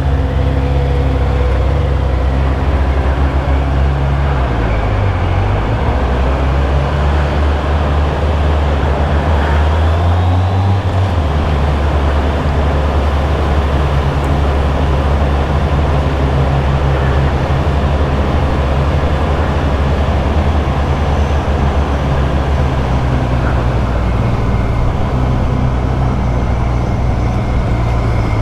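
Motorcycle engine running under way, mixed with wind and road noise. Its pitch dips briefly about four seconds in and rises again around ten seconds in.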